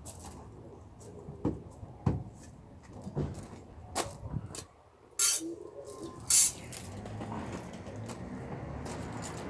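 Scattered knocks and clinks of metal being handled during bodywork on a van sill, with two short, loud hissing bursts about five and six seconds in.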